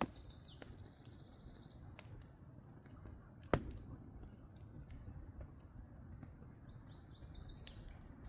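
Campfire crackling, with a few sharp pops over a low steady rustle, the loudest pop about three and a half seconds in. A small bird trills briefly near the start and again near the end.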